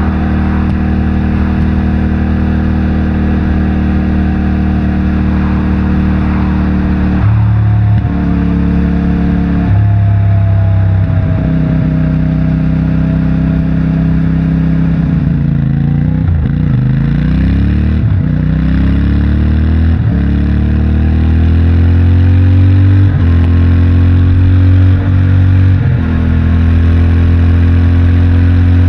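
CFMOTO 450MT's 449 cc parallel-twin engine and stock exhaust under way, heard from the rider. Its revs drop and climb several times, with a sweep down and back up in the middle, and it pulls a little louder near the end.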